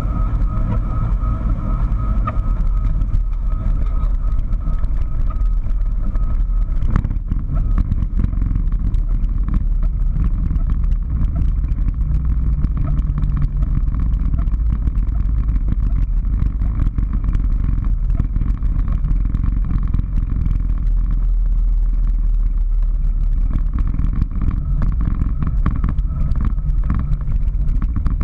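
Steady low rumble of airflow and engine noise inside a Boeing 737-800 cockpit, with one brief thump about seven seconds in.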